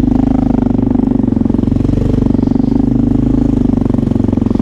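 Motorcycle engine running at a steady, unchanging pace, with a rapid even pulse of its firing.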